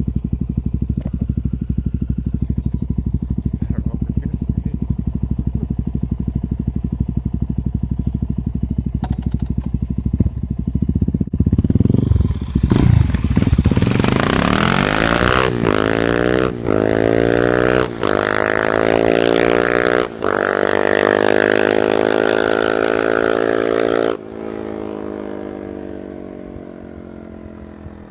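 Suzuki DR-Z400SM single-cylinder engine through a Yoshimura RS2 carbon exhaust, idling steadily for about eleven seconds. It then pulls away, its pitch climbing with three short breaks for gear changes. Near the end the throttle closes and the sound drops off sharply and fades.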